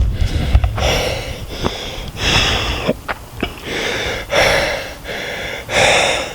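A hiker breathing hard close to the microphone while walking uphill, with a loud breath about every one and a half to two seconds. There are a few short clicks between the breaths.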